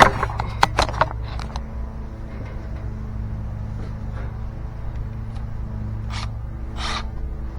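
A steady low machine hum runs throughout, with a few sharp clicks and scrapes in the first second and two short hissing bursts near the end.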